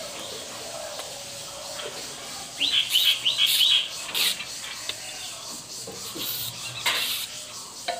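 A bird chirping: a quick run of four rising chirps about two and a half seconds in, with another call later. Between them come a few sharp clicks of a knife working a thin bamboo strip.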